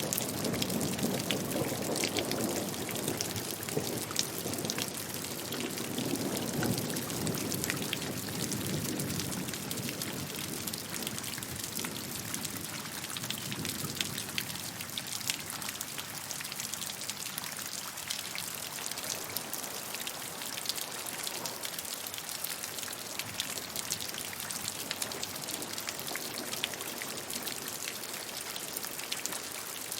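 Steady rain with many individual drops pattering on a surface, plus a low rumble of water that is stronger in the first half and dies down after about fourteen seconds.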